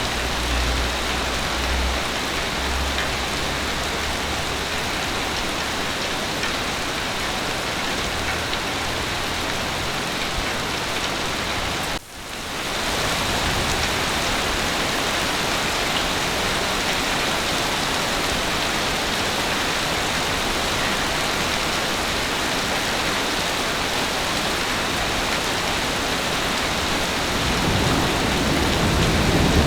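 Heavy rain falling steadily in an even hiss. About twelve seconds in it drops out briefly and fades back in. A low rumble of thunder builds near the end.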